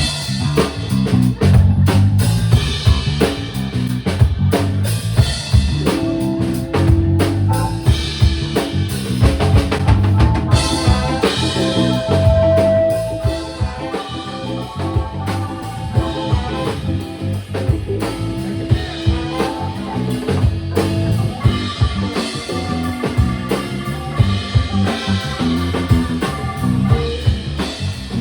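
Live funk band playing an instrumental passage: a drum kit keeps a steady groove with kick, snare and rimshots under bass and held notes from other instruments.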